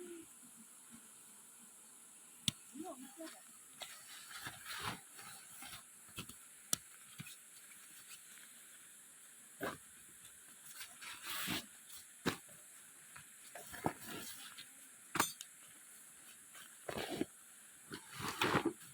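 Scattered short knocks, clicks and rustles, as of gear being handled, over a steady high hiss.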